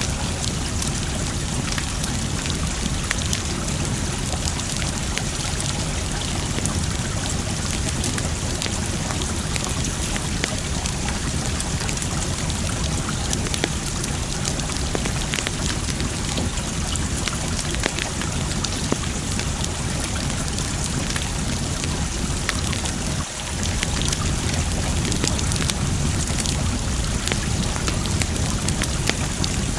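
Wood fire crackling with frequent small, sharp pops over a steady rush of water.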